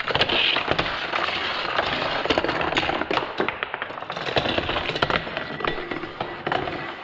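Hard plastic toy vehicles clattering as they roll and bump down a plastic Fisher-Price Little People race track: a dense, uneven run of clicks and rattles throughout.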